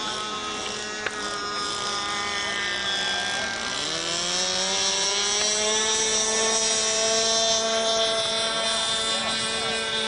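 Model airplane engine running in flight, a high-pitched drone whose pitch wavers up and down, then dips and climbs steadily about four seconds in. A single sharp click sounds about a second in.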